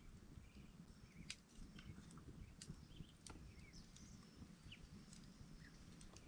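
Faint wood campfire crackling, with sparse sharp pops over a low steady rumble, and short high bird chirps now and then.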